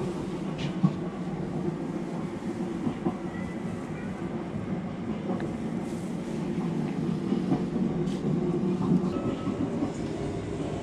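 Sound of a train on the move: a steady low rumble with wheels clacking now and then.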